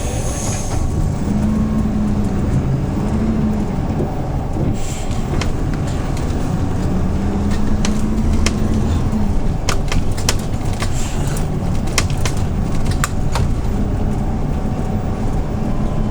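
Hyundai New Super Aero City CNG city bus running, heard on board. A steady low engine drone carries a humming tone that comes and goes a few times, with scattered sharp clicks and rattles through the middle.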